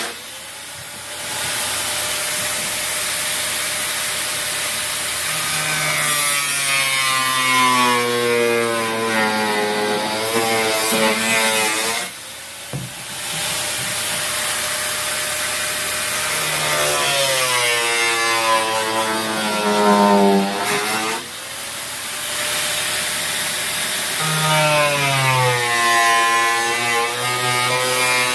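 A power tool's motor running in three long spells with short pauses between them, its pitch slowly rising and falling as the load changes, consistent with cutting.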